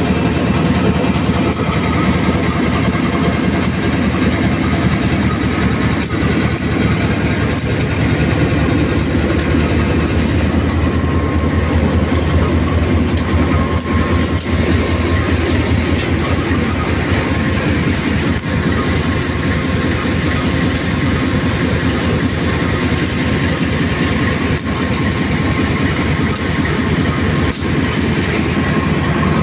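Steady low rumble of a diesel-hauled local train, with scattered sharp clicks.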